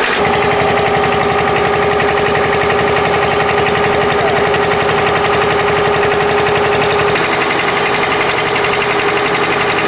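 An engine running steadily at constant speed, with a fast, even beat and a steady hum.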